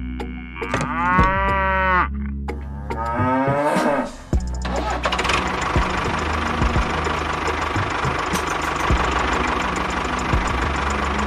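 A cow mooing twice over a low engine hum. From about four seconds in, a steady running engine takes over.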